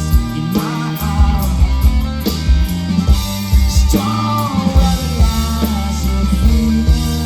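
Rock music: a full band instrumental passage, electric guitar over bass and drums with a steady beat.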